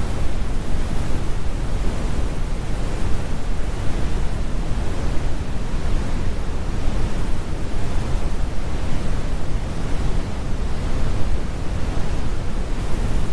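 Computer-generated brown noise: a steady, deep rumble, strongest in the bass with the high end rolled off, even throughout.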